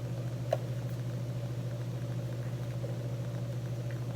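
Steady low hum with a slight regular pulsing, with a single light click about half a second in.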